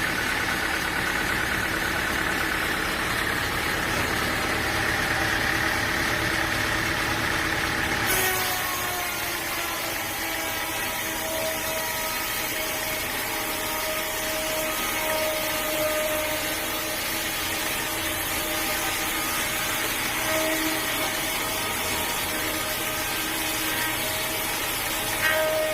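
Sawmill engine and saw machinery running steadily. About eight seconds in, the sound changes abruptly to a steady whine with a clear pitch.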